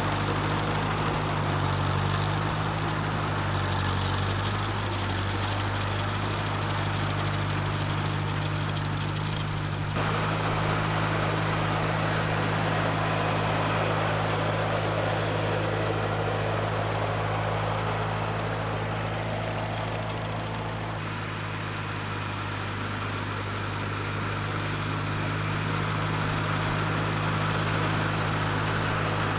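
Tractor engine running at a steady speed with a low, even drone. The sound changes abruptly twice, about a third and two thirds of the way through.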